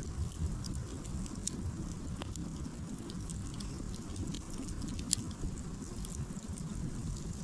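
Wood campfire crackling: irregular small pops and snaps of burning firewood over a low steady rumble, with one sharper pop about five seconds in.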